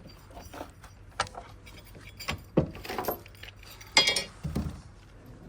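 Small metal nuts clinking and rattling as they are handled and dropped: a scattered series of sharp clinks, the loudest about four seconds in.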